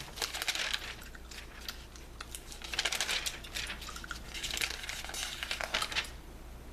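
Glossy magazine pages being handled and turned, rustling and crinkling in about three bouts, with small clicks of paper between them.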